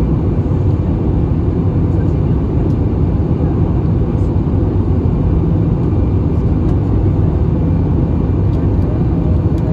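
Steady, even drone of an Airbus A320 in flight: engine and airflow noise heard inside the passenger cabin.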